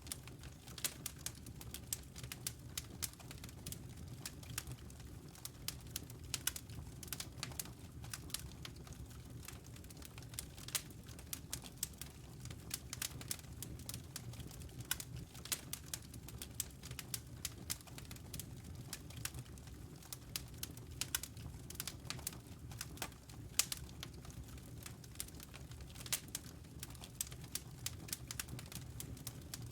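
Wood fire crackling in a fireplace: dense, irregular sharp pops and snaps, several a second, over a steady low rumble.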